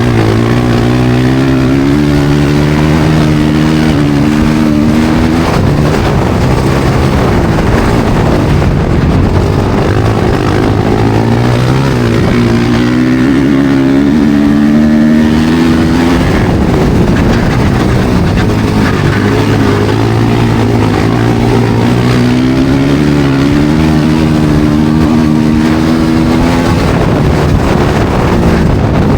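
Studded ice-racing motorcycle engines at racing speed. The engine note climbs and falls away three times, about every ten seconds, under a constant rush of noise.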